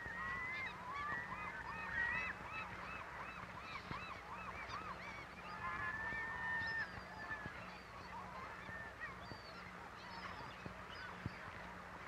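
A flock of birds calling: many short arched calls overlapping one another, with a few longer held notes near the start and again about six seconds in, thinning out toward the end.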